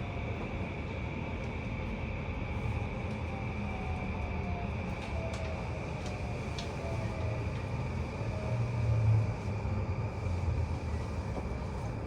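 E235-1000 series EMU motor car with a Mitsubishi full-SiC MOSFET VVVF inverter, heard from inside the car as the train brakes into a station. The inverter and traction motor whine falls slowly in pitch over a steady rumble of wheels on track. A louder low rumble swells about nine seconds in.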